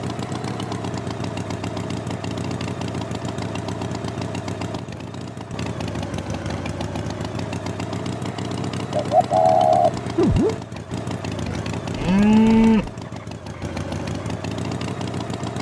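An engine running steadily at idle, broken by short, loud pitched tones about nine seconds in and again around twelve seconds in.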